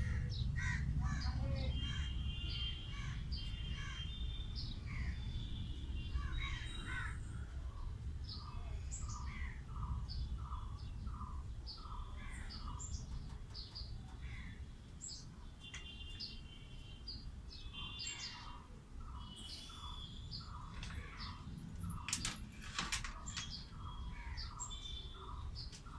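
Birds calling and chirping, one repeating a short falling note about twice a second in runs, over a low rumble, with a couple of sharp clicks near the end.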